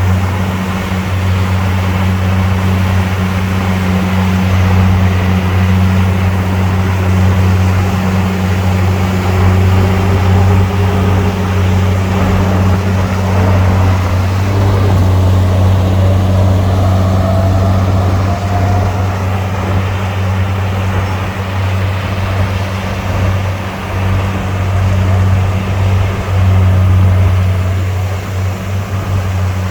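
Heavy diesel engine running steadily with a low drone, with a faint whine rising in pitch through the middle.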